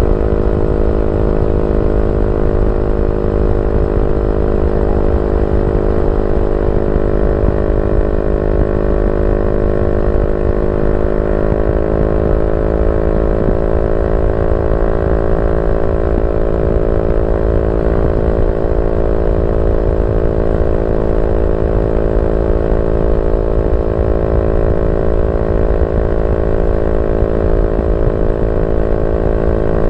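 Yamaha Y15ZR's 150cc single-cylinder four-stroke engine idling steadily through a YYPANG SD3 aftermarket exhaust, its pitch shifting only slightly about a third of the way in.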